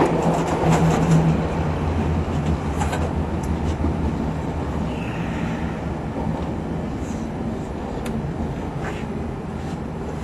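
Electric commuter train running and slowing along a station platform, heard from inside the front car. A steady low hum and rumble from the motors and wheels grows gradually quieter, with a few clicks from the track.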